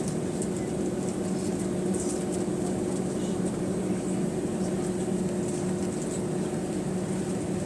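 Steady drone inside the rear cabin of an Airbus A320 on the ground before takeoff, a constant low hum with two steady tones and faint light ticks above it.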